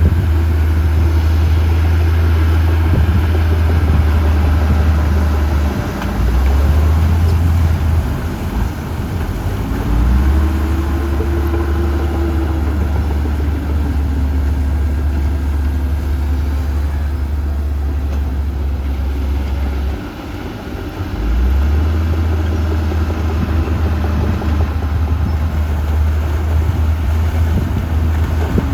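Heavy diesel earthmoving machinery running, a deep steady engine rumble that dips briefly several times, most clearly about twenty seconds in, before coming back up.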